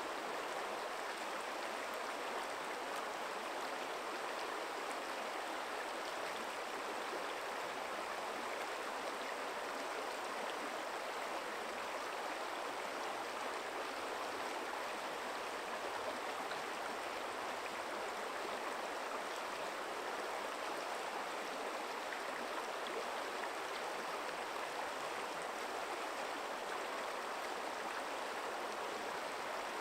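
A small forest stream running steadily over stones, an even rush of flowing water.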